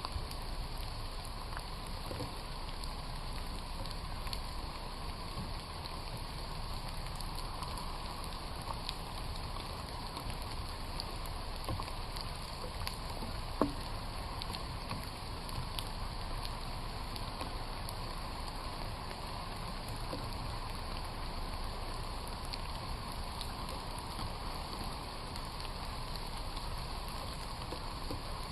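Steady rain falling in a forest, with scattered raindrops ticking and one sharper drop tick about halfway through.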